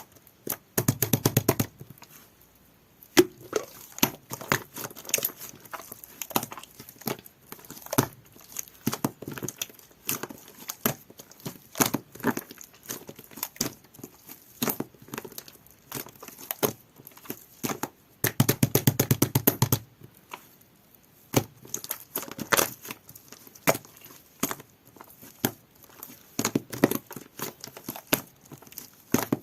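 Jelly-textured slime being squished and worked by hand, giving irregular wet clicks and crackling pops, with two dense runs of rapid popping, about a second in and again around the middle.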